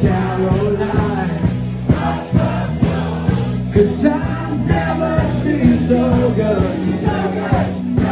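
Live covers band playing an upbeat rock and roll song, with a sung melody over drums, bass and guitar.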